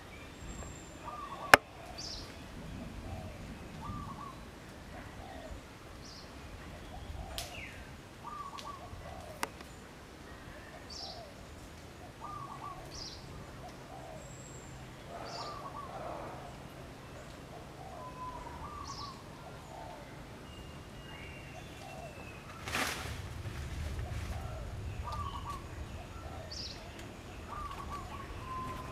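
Birds calling: short chirps repeating every second or two. A single sharp click comes about a second and a half in, and a brief burst of noise comes near the end.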